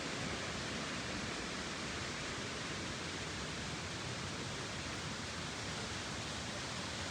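Steady, even hiss-like noise with no distinct events.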